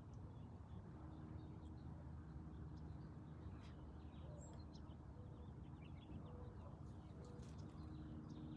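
Faint outdoor ambience: a steady low hum with scattered short, faint high bird chirps.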